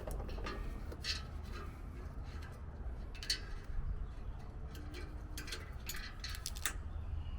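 Scattered light metallic clicks and scrapes from hand work on an exhaust joint as the old exhaust seal is taken off and a new one is fitted, over a low steady hum.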